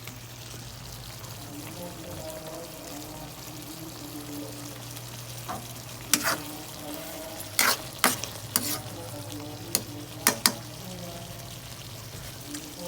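Food sizzling and frying in a pan while it is stirred. In the second half a utensil knocks sharply against the pan about eight times.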